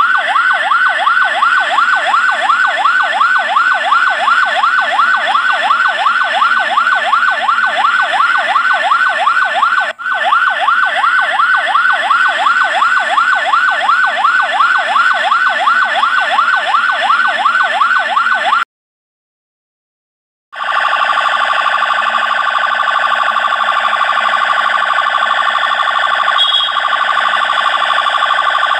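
Electronic siren in a fast yelp, its pitch sweeping up and down about four or five times a second. It cuts out for about two seconds past the middle, then comes back as a faster, even warble.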